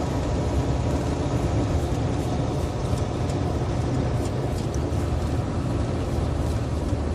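Heavily loaded semi-truck running at highway speed, heard inside the cab: a steady low rumble of diesel engine and road noise.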